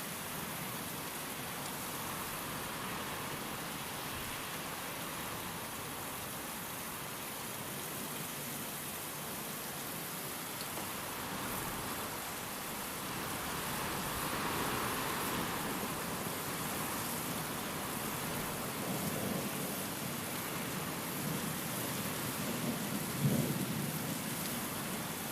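Steady rain with wind, swelling about halfway through. Low thunder rumbles in the second half, with a short, loud clap near the end.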